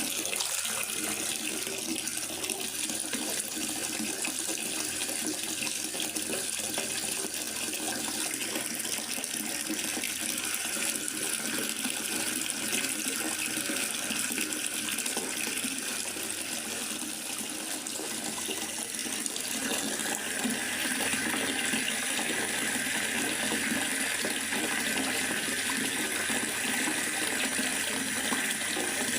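Steady rain falling in a forest, a continuous even hiss of water with no separate drops or thunder; it grows a little louder and brighter about two-thirds of the way through.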